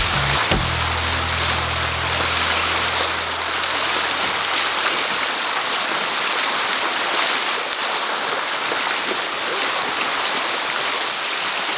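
Steady rushing and hissing of creek water running over a boulder-strewn riffle. The low held notes of background music fade out over the first few seconds.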